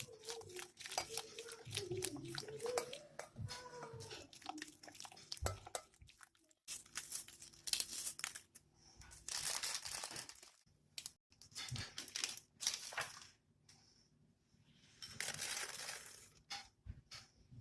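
Kitchen food-preparation handling sounds: many small clicks and knocks, with two longer rustling, crinkling stretches about nine and fifteen seconds in.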